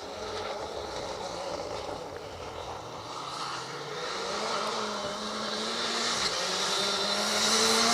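Rally car's engine approaching at speed. Its note climbs and falls back with gear changes, and it grows steadily louder toward the end.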